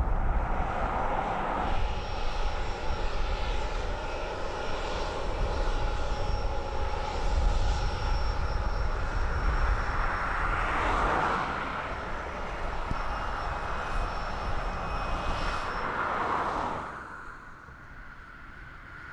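Boeing 767-200ER's turbofan jet engines running: a steady deep rumble with a thin high whine over it. The noise drops away sharply near the end.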